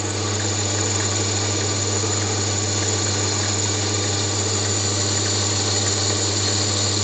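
Mini lathe running steadily: an even motor and spindle hum with a steady hiss above it, rising slightly in the first half-second and then holding level.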